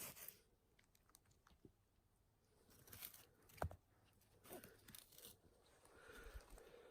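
Near silence with faint, scattered crackles and rustles, and one sharper click about three and a half seconds in.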